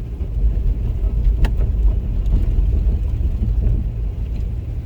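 Road noise inside a car driving slowly over a snow-covered, bumpy road: a steady low rumble from the tyres and body, with one sharp click about a second and a half in.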